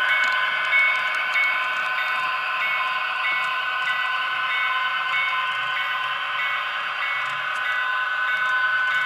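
HO-scale model diesel locomotive's Tsunami sound decoder playing the running sound of an EMD 645 prime mover through the model's small onboard speaker, thin with no low bass, over the model's motor running. A high tone pulses on and off about twice a second.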